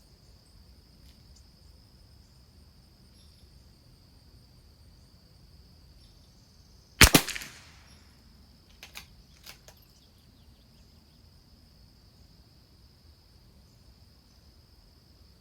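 A single shot from a Christensen Arms Ranger .22LR rifle about seven seconds in, with a short ringing tail, followed a couple of seconds later by a few light clicks. A steady high-pitched insect drone runs underneath.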